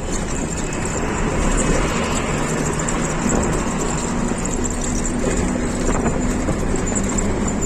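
Truck on the move: steady engine and road noise.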